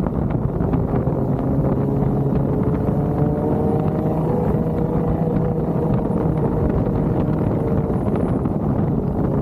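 Off-road 4x4's engine running steadily under load over a low rumble, its pitch drifting slightly up and then settling.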